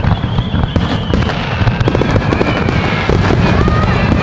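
Fireworks display going off: rapid, dense crackling and many bursts over a continuous low rumble, with a faint whistle in the first second or so.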